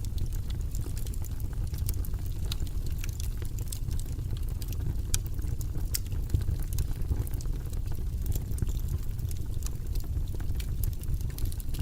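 Wood fire burning in a fireplace, with frequent sharp crackles and pops over a steady low rumble of the flames.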